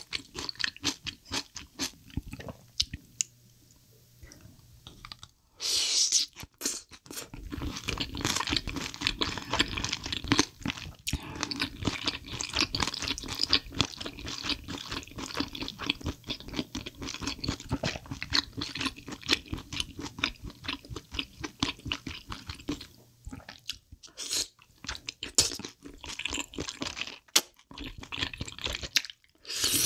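Close-miked chewing of spicy chicken feet and thick glass noodles: a dense, steady run of wet clicks and smacks, with a short louder burst about six seconds in.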